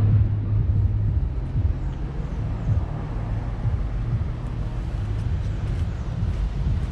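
Car on the road, with a steady low engine and road rumble and no sharp events.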